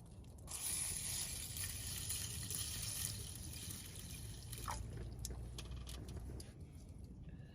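Water pouring into a pot for about four seconds, with a short rising tone just before it stops, followed by a few light clicks.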